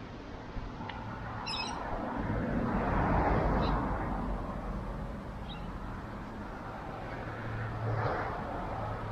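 Small birds giving a few short, high chirps over a steady outdoor rush that swells twice, once about a third of the way in and again near the end.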